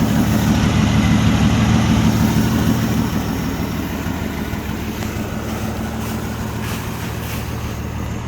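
AMC 258 inline-six engine of a 1979 Jeep J10 running steadily at idle, a little quieter after about three seconds.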